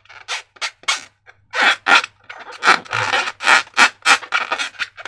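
Repeated short squishing and rubbing sounds from hands working slime and rubber balloons, irregular, two or three a second, some strokes drawn out longer. A faint steady low hum lies underneath.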